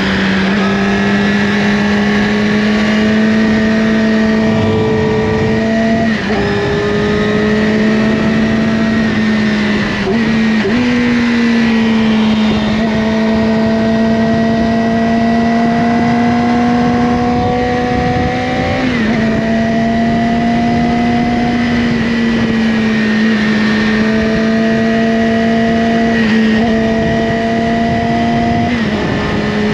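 Yamaha R6 inline-four engine through an Akrapovic slip-on exhaust, running at steady cruising revs while riding. The engine note holds fairly level and shifts pitch briefly five times as the revs change.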